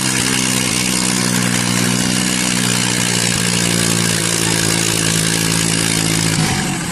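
Tractor diesel engine running loud at a steady speed, under a broad hiss; the note shifts near the end.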